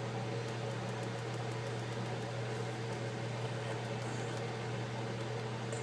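Steady low electrical hum with an even hiss over it, as from a fan or mains-powered appliance running; no distinct event stands out.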